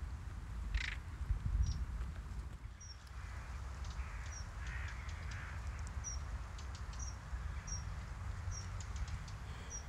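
Faint outdoor ambience: birds calling, with short high chirps repeating through it, over a steady low rumble.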